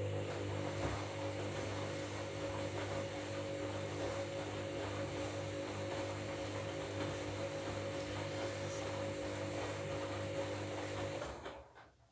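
Washing machine running a wash: a steady motor hum with the water and bed linen sloshing in the drum, stopping about eleven seconds in.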